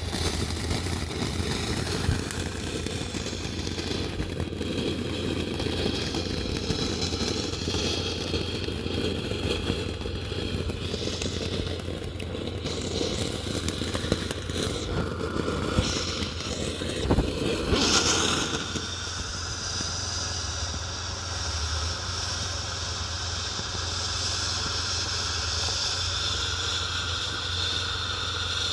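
Consumer firework fountains burning with a continuous crackling hiss. About eighteen seconds in there is a brief sharp flare, and the sound turns into a smoother, higher hiss.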